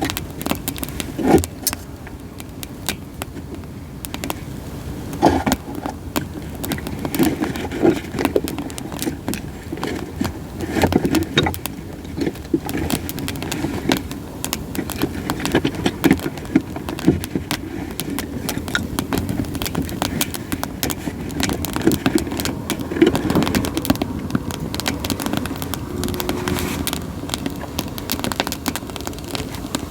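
Split sawtooth oak (kunugi) firewood burning in an open campfire, crackling with frequent sharp pops over a steady low rush of flames.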